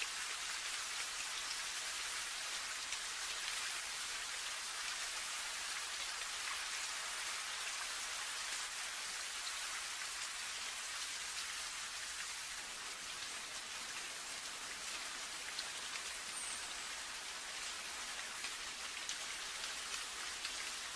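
Steady rain falling, a fine even hiss of many small drops pattering on a surface.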